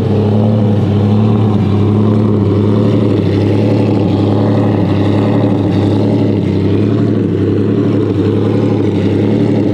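A supercar engine idling loudly and steadily, with a lumpy note that sounds cammed.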